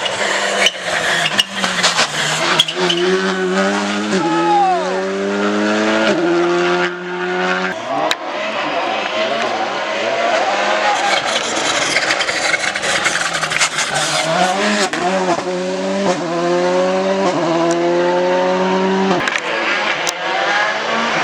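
Rally car engine accelerating hard, its pitch climbing and dropping back at each quick upshift, with sharp exhaust pops in the first few seconds. A second run of rising notes and upshifts comes in the second half.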